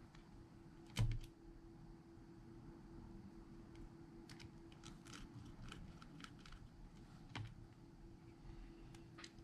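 Small repair tools clicking and tapping on smartphone parts: a sharp knock about a second in, a quick run of light clicks in the middle, another knock, then two clicks near the end, over a faint steady hum.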